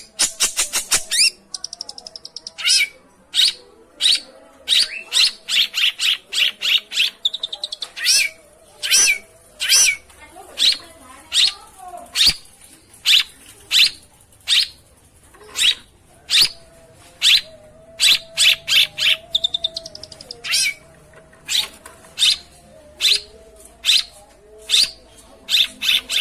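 Long-tailed shrike calling: short, harsh, scratchy notes repeated in quick series, now and then run together into fast rattling bursts.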